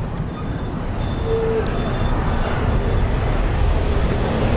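Street traffic noise: a steady low rumble of passing road vehicles, with one short tone about a second and a half in.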